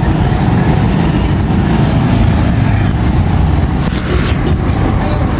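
Steady low rumble of a vehicle's engine and road noise while driving through town traffic, with a brief hiss about four seconds in.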